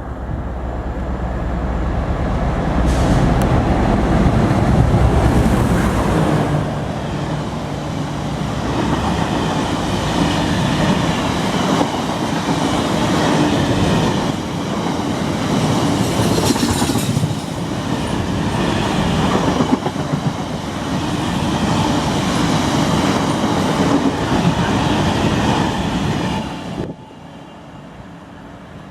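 Class 60 diesel-electric freight locomotive passing close by, its eight-cylinder diesel droning loudly for the first several seconds, then a long rake of freight wagons rumbling and clattering steadily over the rails. The sound drops away suddenly a couple of seconds before the end.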